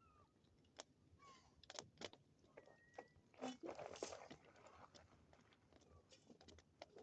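Faint bonfire crackling: wood popping and snapping in irregular sharp clicks, with a soft rush of flame about halfway through.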